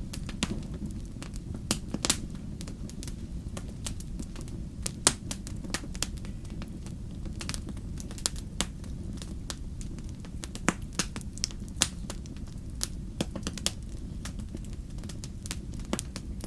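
Fireplace fire crackling: irregular sharp pops and snaps over a steady low rumble of the flames, with the loudest pop about five seconds in.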